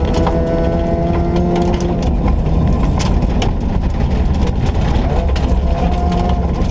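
Ford Ka 1400 rally car driven hard on a stage, its engine running loudly with a pitch that drifts up and down. Frequent sharp clicks and knocks clatter over the engine throughout.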